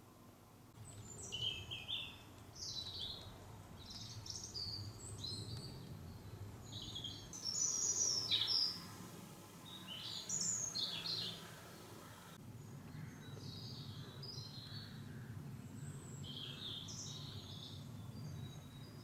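Small songbirds chirping and twittering in many short calls, over a low steady background rumble.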